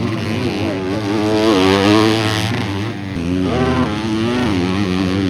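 250-class motocross bikes racing on track, their engines revving up and down in repeated rises and falls as the riders work the throttle.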